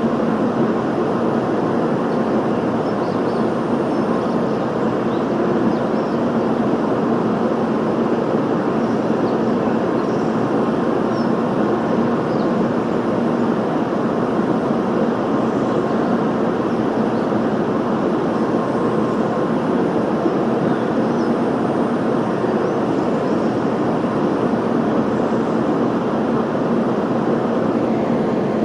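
Steady mechanical whir of a Tokaido Shinkansen train standing at the platform, its onboard equipment running, with a few constant hum tones. It holds level throughout, with no rise or fall of a train moving.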